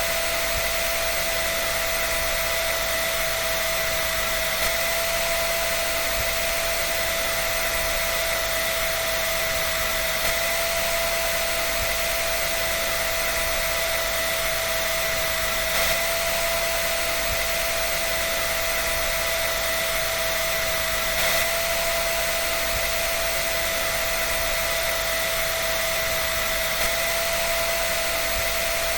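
Hair dryer running steadily on one setting: a continuous rush of air with a constant motor whine.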